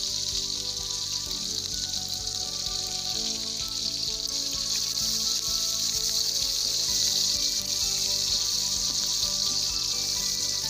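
Oil sizzling steadily in an iron karahi as vegetables fry over a wood fire. Background music of held notes, changing every second or two, plays underneath.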